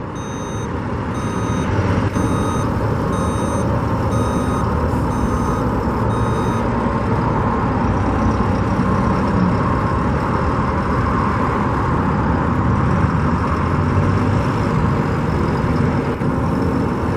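Heavy construction machinery running with a steady engine drone, and a back-up alarm beeping about once a second for roughly the first six seconds.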